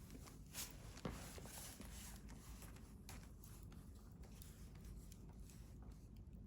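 Wood campfire burning quietly, crackling with irregular small pops and brief hissing flares, and one sharper pop about a second in.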